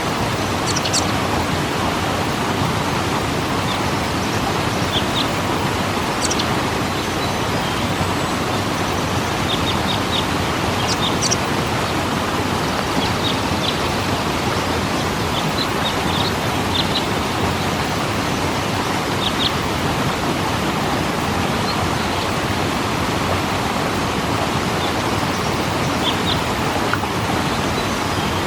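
Waterfall rushing steadily, with short high bird chirps now and then.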